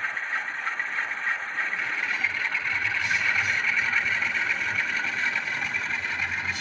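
Diesel engine sound of a Class 47 locomotive from an N gauge model's DCC sound decoder, running steadily at idle through the model's small onboard speaker, thin and without bass.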